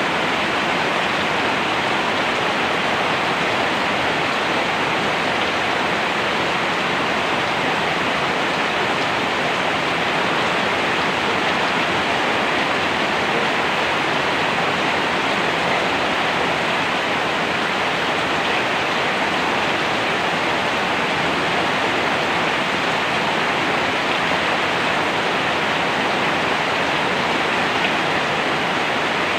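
Steady heavy rain: an even, unbroken hiss with no single drops or thunder standing out.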